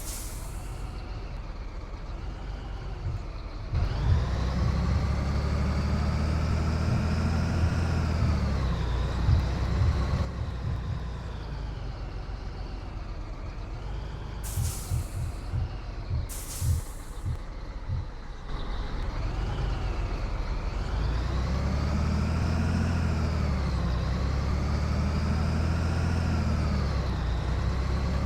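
Scania 113 truck's straight-six diesel working under way, its pitch climbing and dropping several times as it pulls and changes gear. Short air hisses come near the start and twice around the middle.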